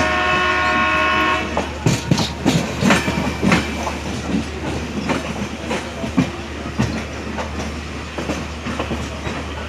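A diesel locomotive horn blows one steady note for about a second and a half, then the coach's wheels clatter over rail joints in a run of sharp clacks, over the steady rumble of a train running at speed.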